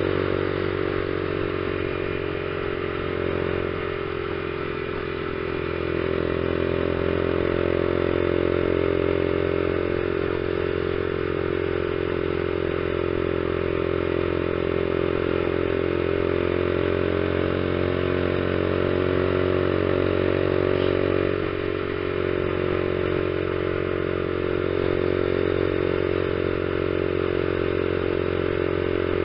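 Honda CG 150 Fan ESDi's single-cylinder four-stroke engine running at steady revs on the move, under wind and road noise. The engine note eases off briefly twice.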